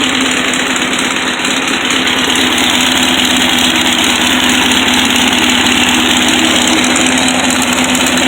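Volkswagen 1500cc air-cooled flat-four engine idling steadily through its newly fitted headers and exhaust.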